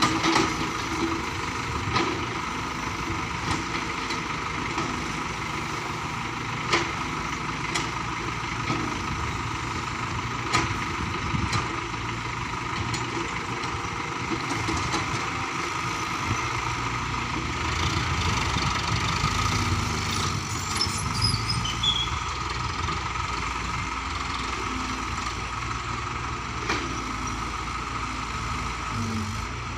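An engine running steadily at a low speed, with occasional sharp knocks or clanks every few seconds.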